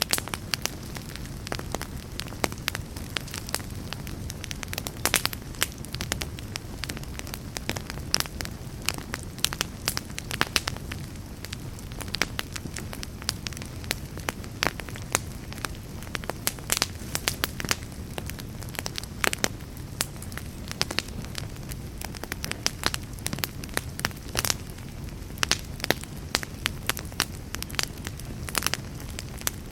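Log fire crackling, with frequent sharp pops and snaps over a steady low rumble of burning wood.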